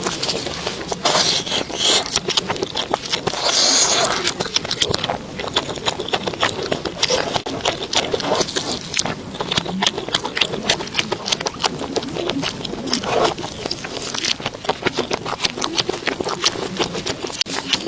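Close-miked eating: many rapid crunches and mouth clicks from chewing crisp food, continuing without pause.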